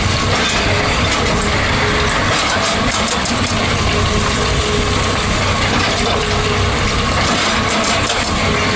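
Excavator running under load with a steady, dense mechanical clatter from its working attachment, along with a faint steady tone.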